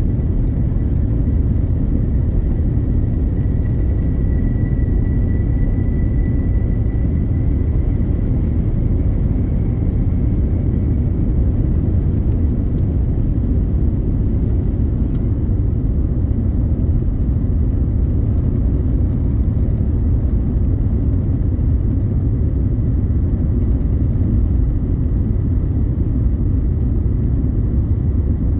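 Steady, loud, deep rumble of an Airbus A350-900's Rolls-Royce Trent XWB engines and airflow heard from inside the passenger cabin, with a faint high whine for a few seconds near the start.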